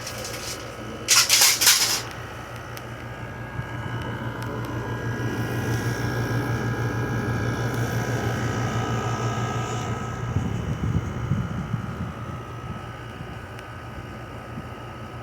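LG 6000 BTU window air conditioner running, its fan blowing with a steady low hum from the GMCC rotary compressor and a few steady whining tones. A short, loud hiss cuts across it about a second in.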